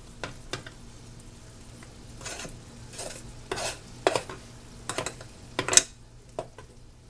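Spoon stirring and scraping refried beans in a pan on the stove, in separate strokes with a few sharp clicks of the utensil against the cookware, over a faint sizzle.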